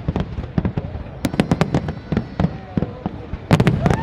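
Fireworks display: a rapid, irregular string of bangs and cracks from bursting aerial shells, with the heaviest cluster of bangs near the end.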